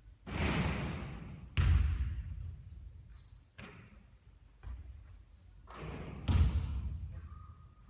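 A basketball striking and bouncing on an indoor court, about five separate thuds that ring out in the hall, the loudest near two seconds in and again about six seconds in. A few short, high squeaks come between them.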